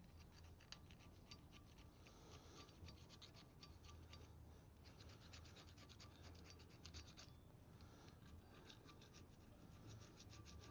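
Faint, rapid hand-scraping strokes, several a second, as old gasket and sealant residue are scraped off a metal mating face; the scraping pauses about seven seconds in, then resumes.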